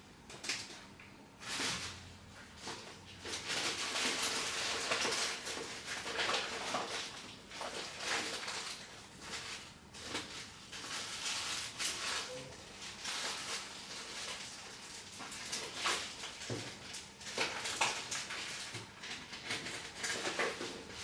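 Small repair tools and phone parts being handled on a workbench: repeated scraping, rustling, and short clicks and taps against a smartphone's metal and glass.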